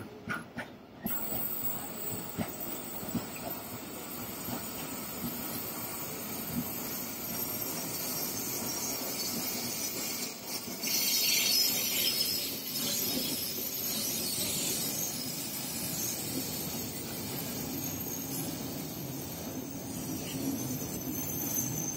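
A freight train of open wagons rolling past, a steady rumble and clatter of wagon wheels on the rails. About halfway through, a louder hissing, higher-pitched noise joins in; near the end a passenger train is running past on the nearer track.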